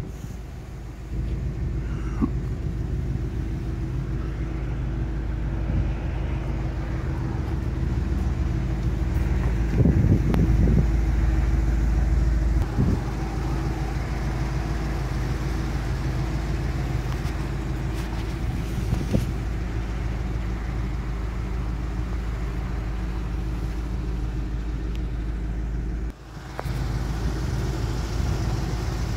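1957 Buick Roadmaster's 364 cubic-inch Nailhead V8 idling steadily. The sound drops out briefly near the end.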